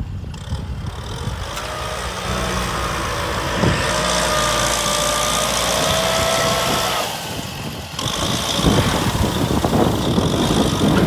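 Kubota M6040 tractor's diesel engine running steadily with a thin whine that rises slightly in pitch between about two and seven seconds in, then a brief drop in level about eight seconds in.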